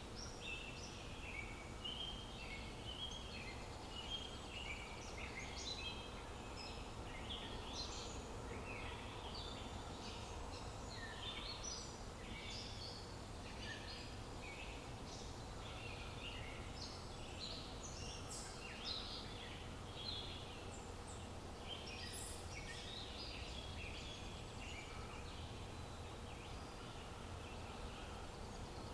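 A chorus of small birds chirping and twittering over one another in a dense, unbroken run of short high calls, over a steady low background hiss.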